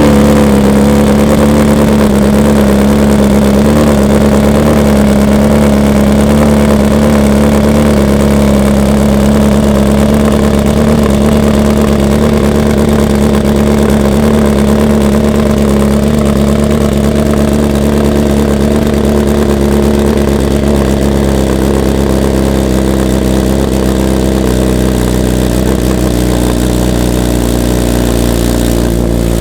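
BMW S1000RR inline-four engine running at a steady, loud fast idle just after a cold start. The idle eases slightly lower near the end as it begins to settle.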